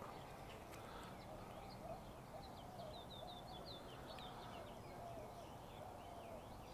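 Faint birdsong: a quick run of short, high chirps a couple of seconds in, over lower wavering whistled notes and a steady low background hum.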